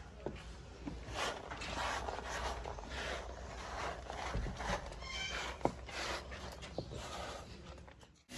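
Irregular scrubbing and splashing strokes of hand-washing car seats with shampoo and water, about one a second, with a few sharp clicks and a brief high squeak near the middle.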